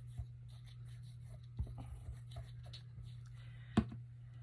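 Paper and craft pieces being handled and set down on a work table: faint rustling and light taps, with one sharper click a little before the end, over a steady low hum.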